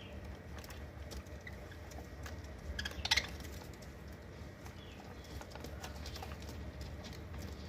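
Scattered light taps and clicks, with a louder cluster of clicks about three seconds in, over a steady low hum.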